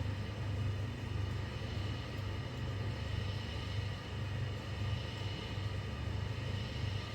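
Electric wall or exhaust fan running: a steady low motor hum that pulses slightly, with a faint high whine over it.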